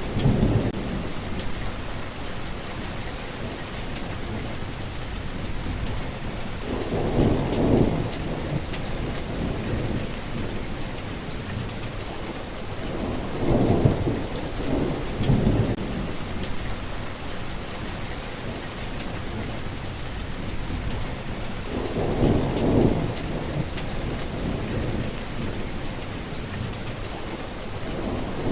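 Steady heavy rain falling, with rolling thunder rumbling up three times, about seven, fourteen and twenty-two seconds in.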